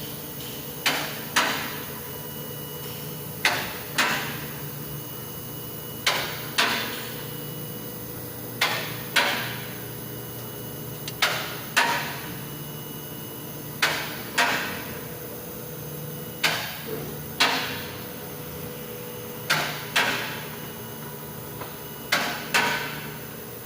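Hammer blows ringing on metal, struck in pairs about half a second apart, the pair repeating steadily every two to three seconds, over a steady low hum.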